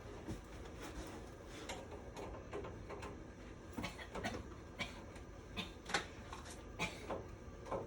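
Scattered light clicks and knocks at irregular intervals over a low steady hum, the sharpest about six seconds in.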